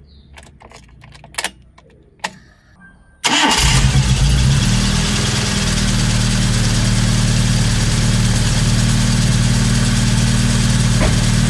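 A few clicks of the ignition key, then about three seconds in the Proton Saga's engine starts and settles into a steady idle. Over the idle the drive belts give a repeated 'jit jit jit' chirp, the sign of a loose, slipping belt, here the power steering belt.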